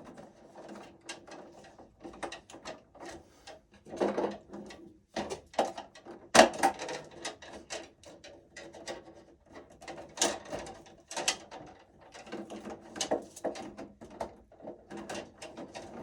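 Irregular clicks, scrapes and rustles of hands working stiff wires and breakers inside a metal electrical panel, with one sharp click about six and a half seconds in.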